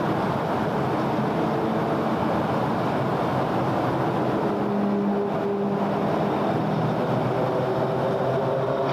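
City road traffic: a steady rumble of vehicle engines and tyres, with one engine tone standing out briefly about halfway through.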